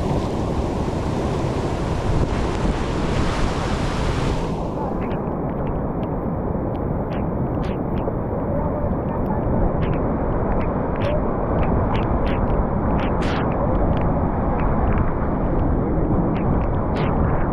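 Flood water released through the dam's open spillway gates, a loud steady rush of water. A higher hiss rides over it for the first four seconds or so, then drops away.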